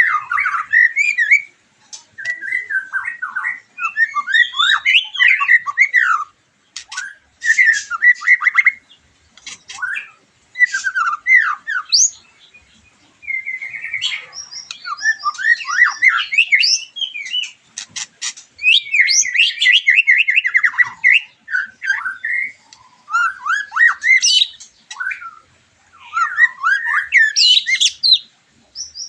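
White-rumped shama (murai batu) singing: a loud, varied song of fast whistled phrases and sweeping notes, broken by short pauses and mixed with quick runs of clicking, chattering notes.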